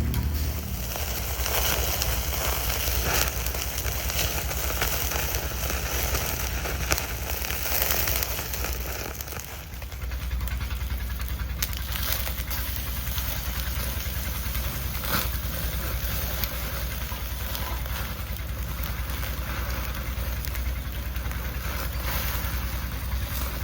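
Campfire crackling, with many small pops over a steady low rumble.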